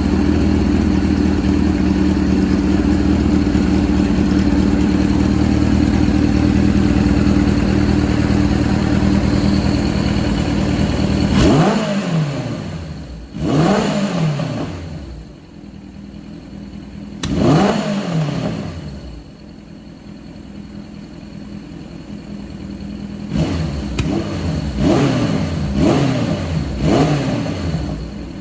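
1982 Suzuki GS850G's air-cooled inline-four engine, first start after a complete carburettor rebuild. It runs steadily at a raised idle, then is blipped about seven times, the first three revs the strongest, dropping back to a lower idle between them.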